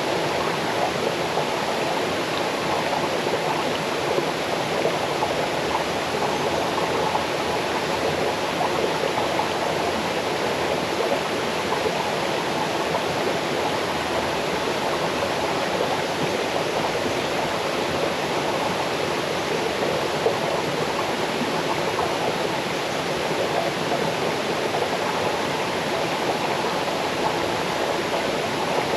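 Small waterfall cascading over rocks into a stream, a steady rushing and babbling of water.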